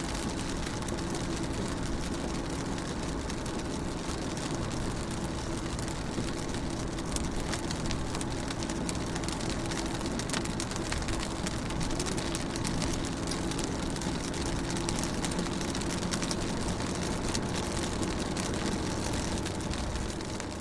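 Steady rain on a car's windows and roof, heard from inside the car: a constant hiss dotted with many small drop taps, over a steady low hum.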